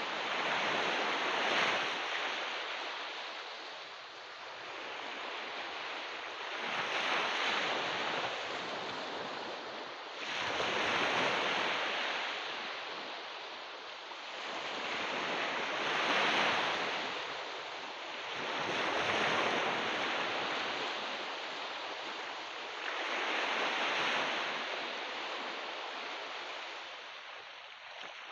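Ocean waves breaking and washing up a beach: the surf swells and fades about six times, one wave every four to five seconds.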